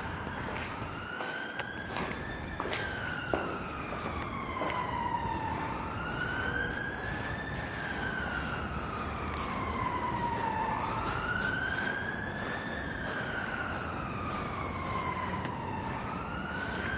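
Emergency-vehicle siren in a slow wail, its pitch rising and falling about every five seconds, three times over. It sounds over a steady background of wind and street noise.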